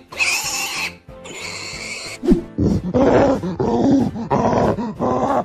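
Animal sound effects over background music: two high, noisy cries in the first two seconds, then a deep growling roar that carries on to the end.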